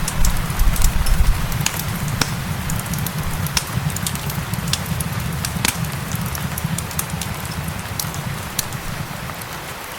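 Fireplace crackling with frequent irregular sharp pops, over a steady hiss of rain and a low rumble that is strongest in the first second or so.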